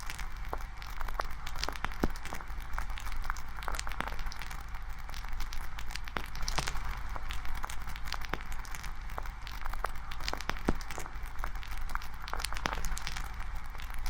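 Campfire crackling: burning wood snapping and popping in many irregular sharp clicks over a steady hiss.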